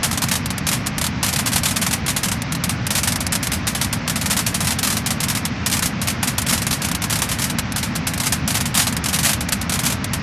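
Wood fire burning, with dense, continuous crackling and popping over a steady hiss.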